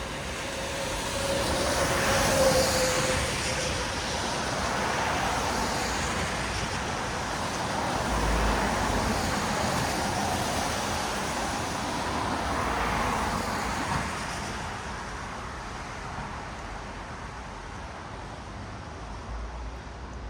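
Vehicles passing on a rain-wet city road, their tyres hissing on the wet surface. The sound swells as each passes, with peaks about two, eight and thirteen seconds in, and grows quieter after about fourteen seconds.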